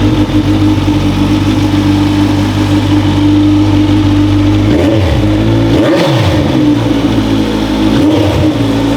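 Kawasaki Ninja 1000's inline-four engine running loud through an Akrapovič megaphone exhaust, holding a steady note with three quick throttle blips about five, six and eight seconds in.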